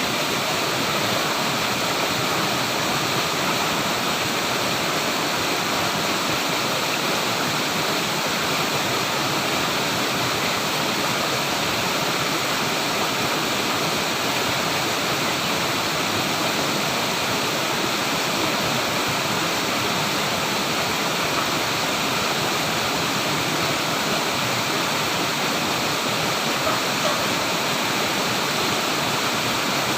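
Flowing water rushing steadily, a continuous even wash of sound with no change in level.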